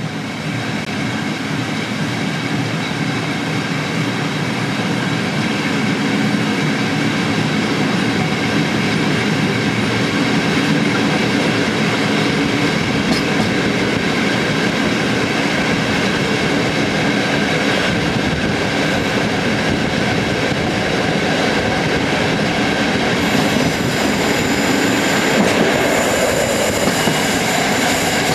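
Passenger train running on the rails, a steady loud rumble with high-pitched wheel squeal over it that grows stronger near the end.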